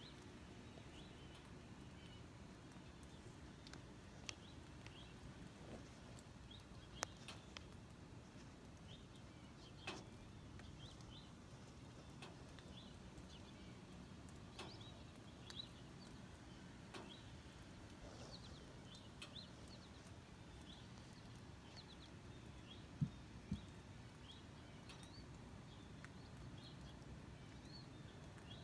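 Near silence with faint, scattered chirps of small birds. A few sharp clicks stand out, the loudest a close pair about two-thirds of the way through.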